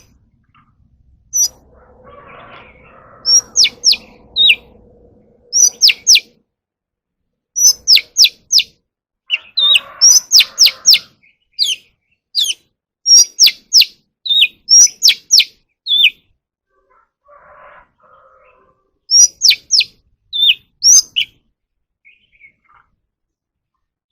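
Oriental magpie-robin singing: loud, sharp whistled notes that mostly drop steeply in pitch, given in quick bursts of two to five with short pauses between phrases. The song thins out near the end.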